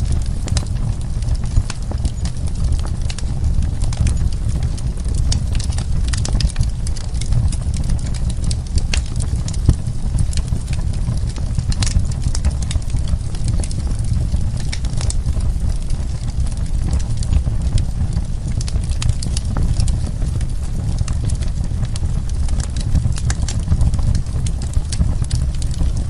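Wood fire crackling: irregular sharp pops and crackles from burning wood, several a second, over a steady low rumble of the flames.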